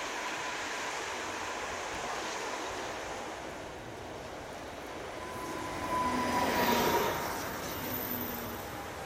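Pesa Elf (EN76) electric multiple unit running into the station and passing close by, a steady rolling rumble and hiss. It is loudest about six to seven seconds in, with a brief high whine as the cars go past.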